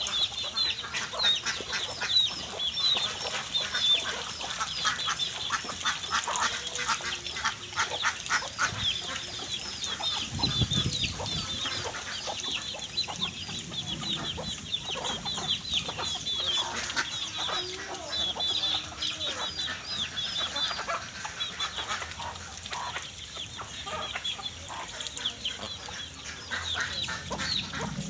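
A large flock of domestic ducks calling continuously while feeding: a dense, overlapping chatter of short high calls with clicking and dabbling noises mixed in.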